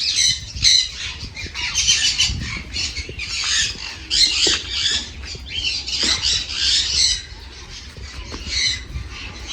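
Many caged parrots squawking and chattering at once, a dense crowd of shrill calls that thins out about seven seconds in.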